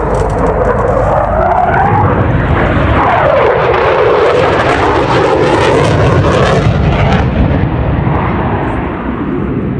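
Eurofighter Typhoon's twin jet engines during a display pass, loud, the engine tone sliding up and then down and back up in pitch, easing off a little near the end.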